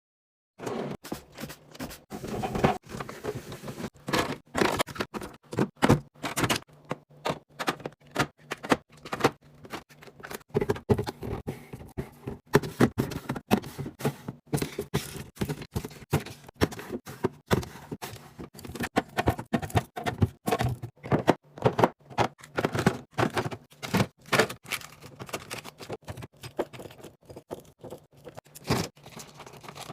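Packaged food and drink being handled and set into a fridge: a steady run of small knocks, taps and scrapes, several a second, as items are placed and arranged.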